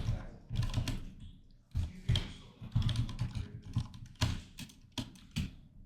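Typing on a computer keyboard, close to the microphone: several quick bursts of keystrokes separated by short pauses.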